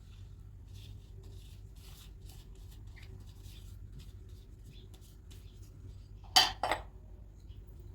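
Faint scattered clicks and scrapes of handling over a steady low hum, with a sharp double clatter about six and a half seconds in.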